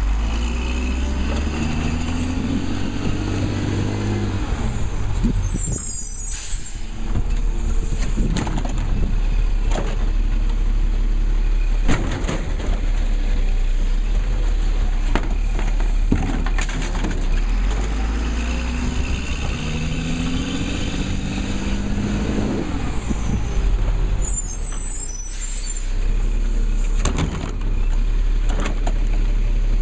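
Labrie Cool Hand automated side-loader garbage truck working through two pickup cycles. With each lift its diesel engine revs up and winds back down while a high whine rises and falls, and each cycle ends in a short burst of air hiss and knocks.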